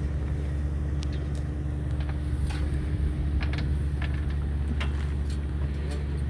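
Fishing boat's engine running steadily with a low, even hum, with scattered light clicks and knocks of tackle on deck.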